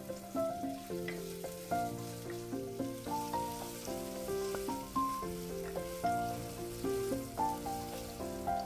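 Food frying in a pan with a steady sizzle, under melodic background music.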